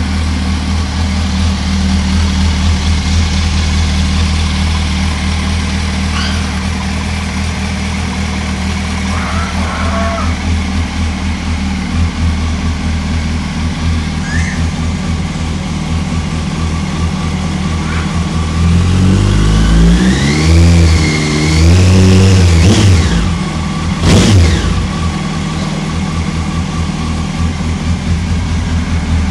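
Yamaha R1 motorcycle's inline-four engine idling steadily, then revved in a series of throttle blips rising and falling a little past halfway, with one short sharp blip just after, before dropping back to idle.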